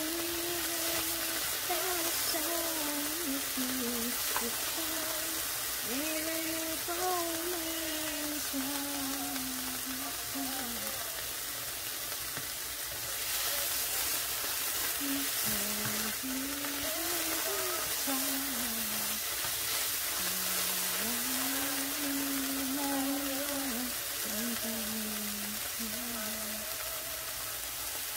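Cubed chicken breast frying in oil in a nonstick pan, with a steady sizzle, while a voice sings or hums a slow tune softly over it.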